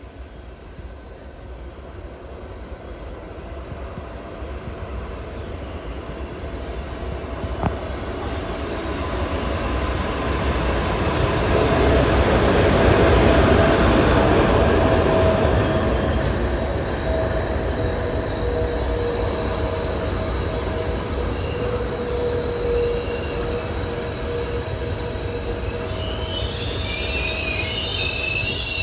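A train approaching along the line, growing steadily louder to a peak about halfway through, then running on at a steady level with a few held tones. Near the end a cluster of high squealing tones sets in from the wheels on the rails.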